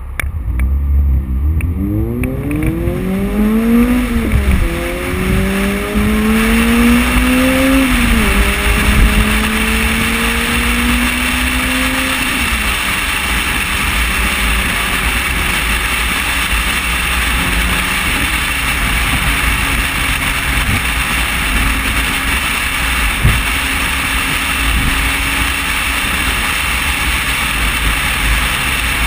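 Car engine accelerating through the gears, rising in pitch and dropping at upshifts about 4, 8 and 12 seconds in. It then gives way to a steady rush of wind and road noise at freeway speed, picked up by a GoPro Hero2 in its housing on the windshield.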